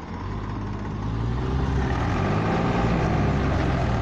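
Tractor engine revving up: its low note climbs in pitch and loudness over the first second or so, then keeps running hard, rising and falling slightly.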